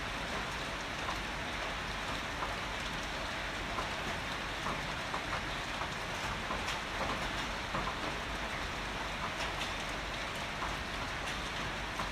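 Steady heavy rain falling, with many individual drops ticking sharply on a hard surface close to the microphone.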